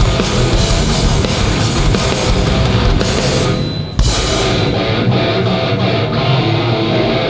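Live hardcore punk band playing an instrumental passage with distorted electric guitars, bass and drums. The band drops out briefly about three and a half seconds in, then comes back in on a hard hit with a new riff and less cymbal.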